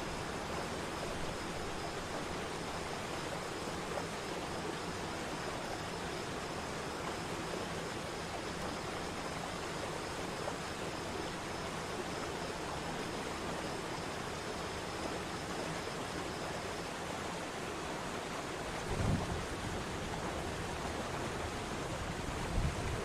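Waterfall rushing with a steady, even noise, with two brief low thumps in the last few seconds.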